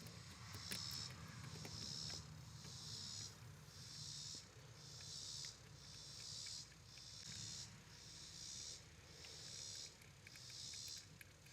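Faint insect calling in a steady rhythm: a high buzzing pulse about once a second, over a low hum, with a few faint clicks.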